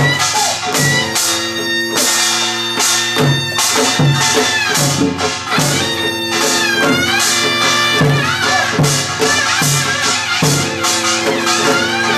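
Korean traditional folk music accompanying a deotbaegi dance: a nasal double-reed wind melody with sliding, bending notes over steady drum strokes about every 0.8 seconds.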